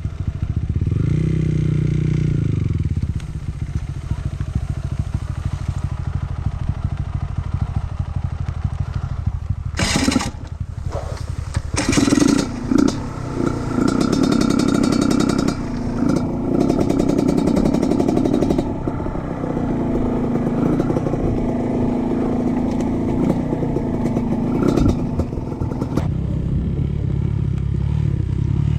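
Trail motorcycle engine revving up and down as it is ridden over rocky ground, with sharp clattering knocks about ten and twelve seconds in.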